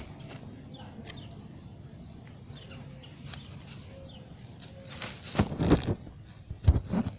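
Faint, scattered bird chirps, then two loud bursts of rustling and bumping near the end.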